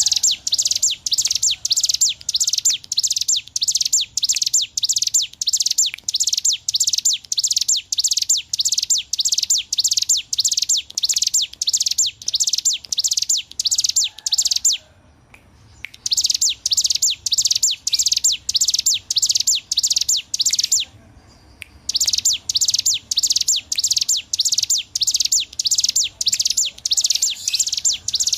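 Ciblek gunung, a mountain prinia, singing a long run of rapid, high repeated notes at about three a second, broken by two short pauses about 15 and 21 seconds in.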